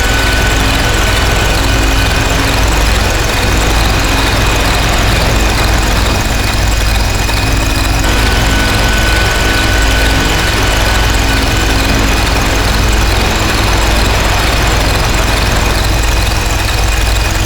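Harsh noise drone from a DIY noise synth run through distortion pedals: a loud, unbroken wall of distorted noise over a deep rumble. A thin, high whistling tone sits on top, drops out about two seconds in, and comes back near the middle.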